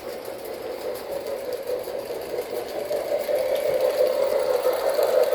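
O gauge K-Line New York Central Hudson model steam locomotive running on the track, with a steady electric-motor and wheel whir that grows gradually louder.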